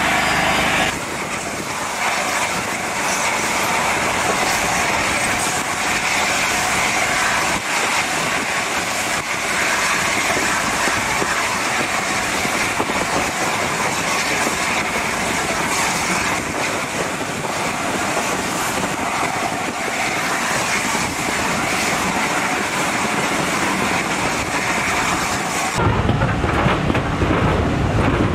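Running noise of a moving train hauled by the LNER A4 steam locomotive No. 60007 Sir Nigel Gresley, heard from on board: a steady rush of wheels on rail and moving air. A couple of seconds before the end it turns suddenly to a deeper, heavier rumble.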